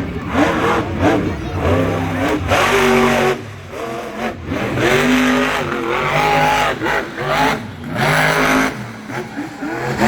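Monster truck engine revving hard in repeated bursts, its pitch rising and falling with each blip of the throttle.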